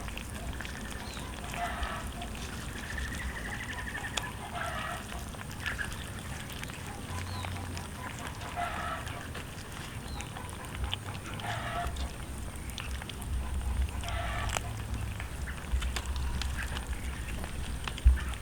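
Short animal calls repeated every second or few seconds, over a steady low background rumble.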